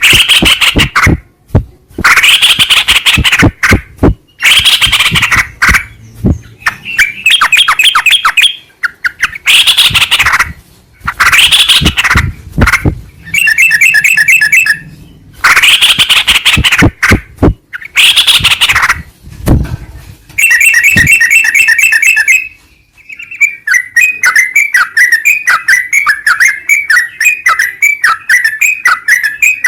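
Yellow-vented bulbul calls, recorded loud and close. Harsh chattering bursts alternate with short rapid trilled phrases, and a long run of fast repeated notes takes over in the last quarter.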